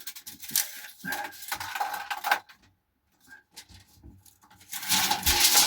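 Handling noise from taking measurements with a tape measure: light metallic clicks and rattles with scraping and rubbing, loudest near the end.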